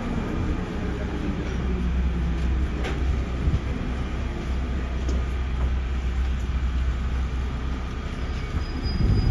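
Inside a JR Central 311 series electric train: a steady low hum with general train noise, changing and growing louder near the end.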